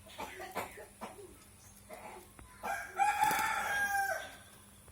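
A bird's loud call: one held note of about a second and a half, beginning a little before the middle and dropping slightly in pitch just before it stops. Softer short sounds come in the first second.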